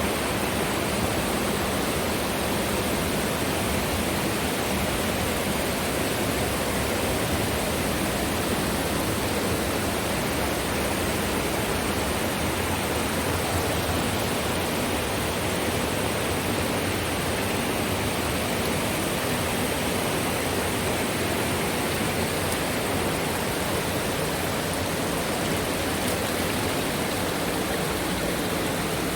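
Rushing water of a river or waterfall, a steady unbroken roar of white water.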